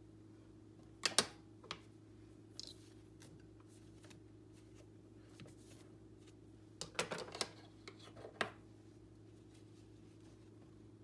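Scissors snipping through a doll's hair: a couple of sharp snips about a second in, then a quick run of snips around seven seconds and one more shortly after, over a faint steady hum.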